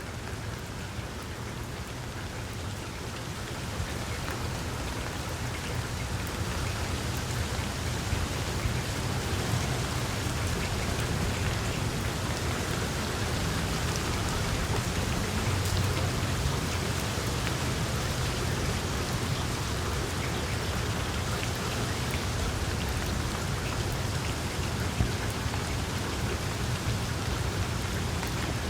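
Wood fire crackling in a fireplace: a dense stream of small pops and snaps over a low rumble of flame, growing louder over the first several seconds, with one sharper pop near the end.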